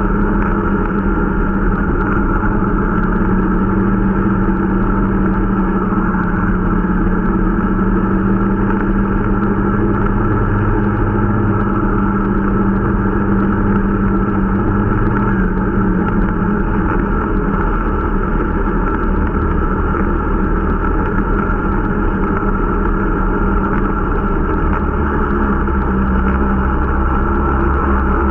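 Irbis Dingo T125 snowmobile's small 125 cc engine running steadily under way, its note shifting a little now and then with the throttle, on a new machine being run in.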